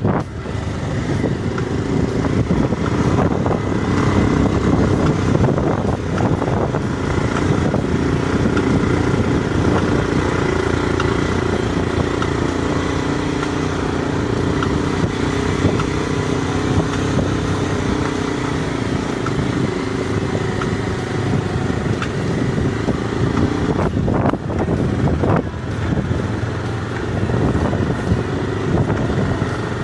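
Motorcycle engine running at a steady cruising speed while riding, with road noise. Two short knocks about four-fifths of the way through.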